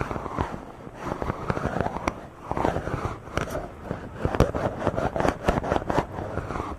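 A microphone being rubbed directly for ASMR: scratchy rubbing strokes that swell and fade about once a second, with sharp crackling ticks mixed in, thickest in the second half.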